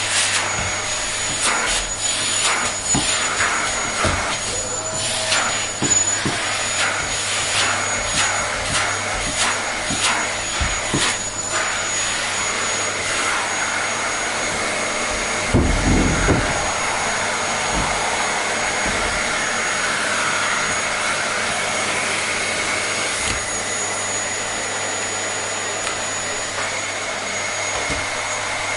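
Vacuum cleaner running steadily, a constant whooshing noise with a faint high whine. Scattered clicks and rattles come through over the first dozen seconds, and there is a brief low thump a little past the middle.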